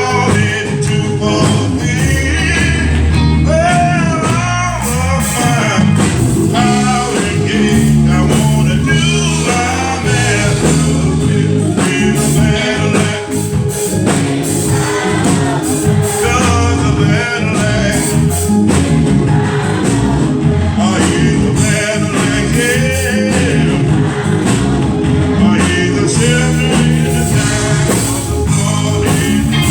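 Live gospel praise-and-worship music: voices singing over a church band, with a steady bass line and drums.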